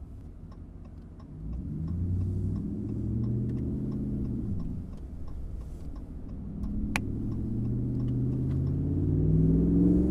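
Ram 1500's 5.7 HEMI V8 running under way, heard from the cabin, its deep exhaust note swelling and climbing in pitch as the truck accelerates near the end. A steady light ticking about two to three times a second runs with it, with one sharper click about two-thirds of the way through.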